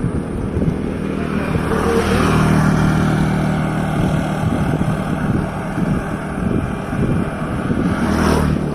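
Motor vehicle engines passing close by, a steady low engine hum with a swell about two seconds in and another near the end, over wind rumbling on the microphone.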